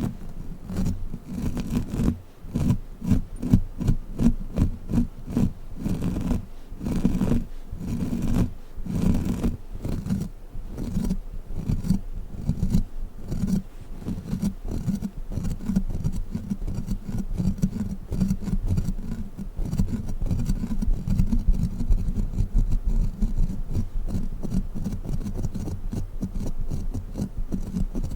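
Sticky crawler toy being handled, with a fast, irregular run of sticky taps and crackles.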